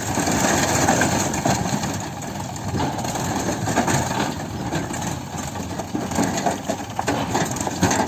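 Heavy diesel engine running steadily, a rough continuous rumble with scattered knocks and rattles.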